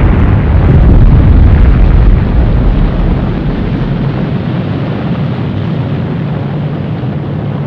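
Loud, continuous rumble of an atomic bomb explosion, heavy in the low end, slowly fading after about two seconds.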